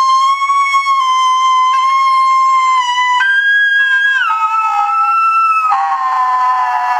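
Saxophone playing very high held notes: one steady note, a jump higher about three seconds in, a drop about a second later, then several notes sounding at once like a split-tone multiphonic near the end.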